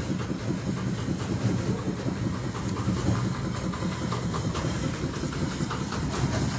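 Septic vacuum truck's pump and engine running steadily with a hiss and a rough rattle, siphoning a septic tank.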